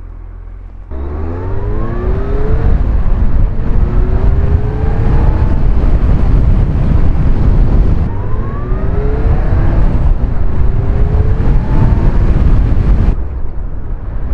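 Motorcycle engine pulling away and accelerating: about a second in it jumps from a low steady run to full throttle, then rises in pitch again and again with drops between, as it is shifted up through the gears. There is a steady rush of wind noise, and the engine eases off near the end.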